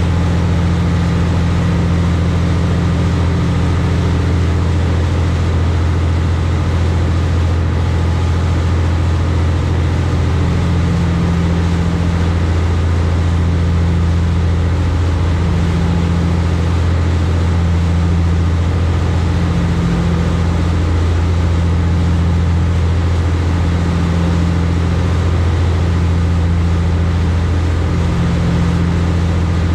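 High-speed passenger boat's engines running steadily at cruise, a loud low drone. About a third of the way in, a slow throbbing beat comes into the drone, roughly every two seconds.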